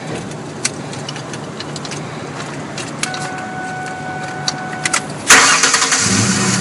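A few clicks and a steady electronic tone for about two seconds, then a 2013 Ford truck's engine starts with a loud burst about five seconds in and settles into a steady idle.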